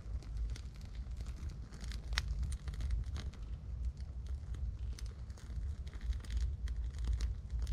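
Tinder and kindling crackling and crinkling as a campfire is being lit: a scatter of sharp, irregular clicks over a low, steady rumble.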